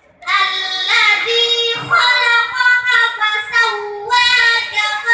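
A young girl's voice chanting Qur'an recitation in a melodic style, holding long notes high in pitch and moving in steps between them.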